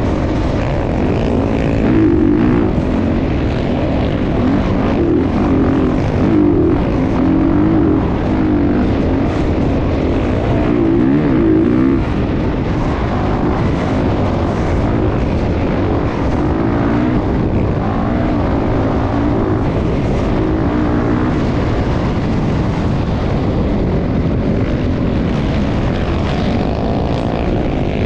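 Motocross motorcycle engines running and revving, their pitch rising and falling continuously without a break.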